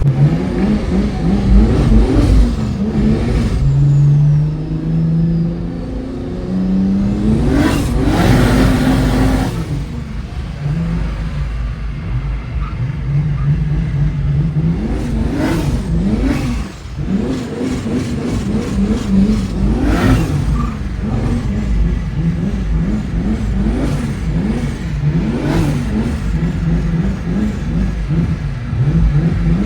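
Turbocharged 2JZ inline-six in a Genesis Coupe drift car, revved hard up and down over and over as it drifts. Loud noisy surges break in several times, the biggest about eight seconds in.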